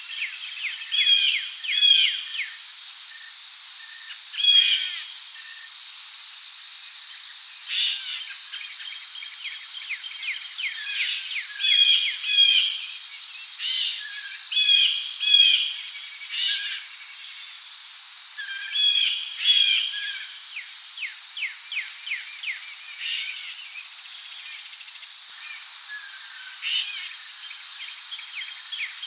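Rainforest ambience: a steady high-pitched insect drone, with birds calling in short repeated phrases, often two at a time, every few seconds, and some rapid ticking trills.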